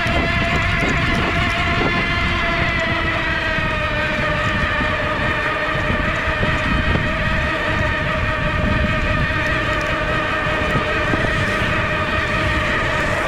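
Electric hub motor of a Rad Rover e-bike whining steadily under power, with wind rumbling on the microphone.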